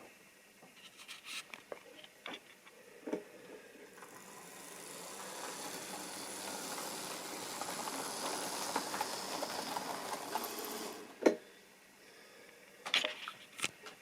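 Model train running along the track: a rolling, whirring noise that builds over a few seconds, runs steadily, then stops suddenly, followed by a sharp click and a few lighter clicks.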